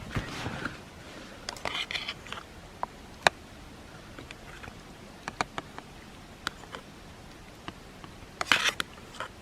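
Scattered light clicks and knocks from camp cookware and utensils being handled, with one sharper click about three seconds in and two short rustling bursts, about two seconds in and near the end.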